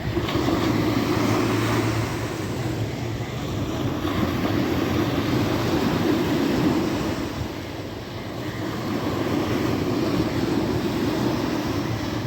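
Sea waves washing in continuously, the surf swelling and easing every few seconds over a low rumble.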